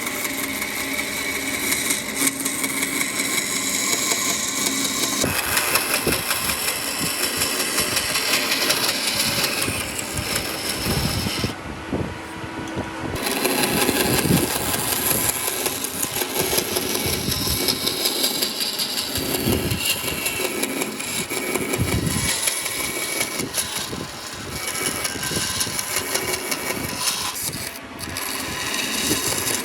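Motor-driven power tools running and working wood, a steady loud machine noise that changes abruptly several times.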